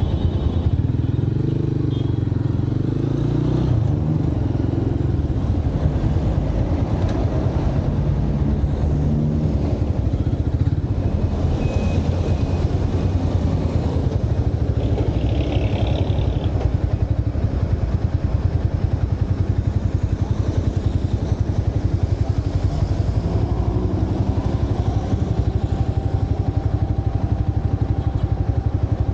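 Motorcycle engine running steadily under way, heard from a camera mounted on the bike, its pitch shifting in the first few seconds as the speed changes. A short higher-pitched sound from the surrounding traffic comes about halfway through.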